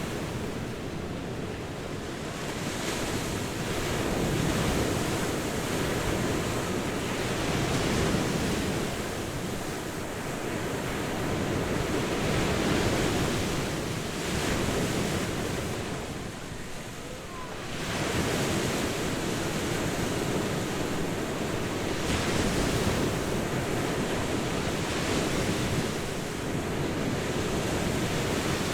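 Ocean surf breaking and washing up a beach in a steady, rolling rush that swells and ebbs, easing briefly a little past halfway before the next wave builds.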